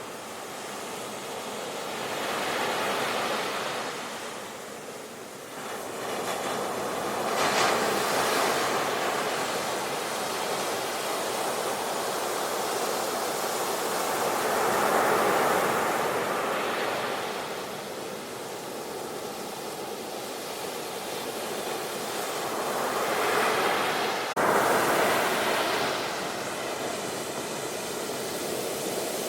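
Ocean surf: waves breaking and washing ashore, the rush of water swelling and easing every several seconds, with a sudden jump in level about 24 seconds in.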